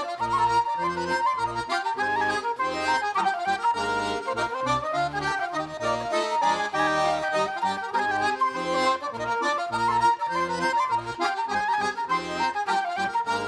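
Irish traditional dance tune played briskly on a button accordion, with a quick run of melody notes over a steady, rhythmic bass-and-chord accompaniment.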